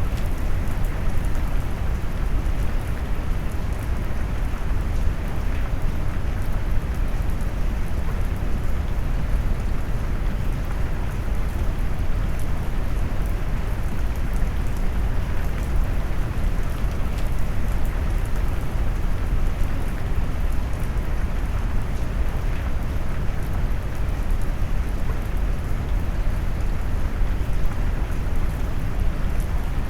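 Rain sound mixed with deep brown noise: a steady, even hiss heaviest in the low end, with fine raindrop patter through it and no change in level.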